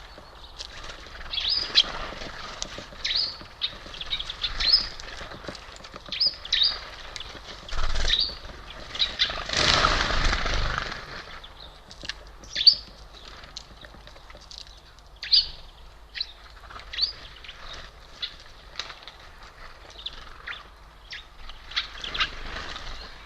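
Small birds at a feeder calling in short, sharp chirps, scattered irregularly throughout, with a louder rushing flutter lasting about two seconds around ten seconds in.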